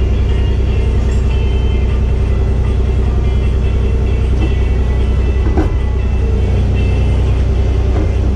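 Kubota 040 mini excavator's diesel engine running steadily, with faint steady whines over the rumble. A short knock comes a little past the middle and another near the end.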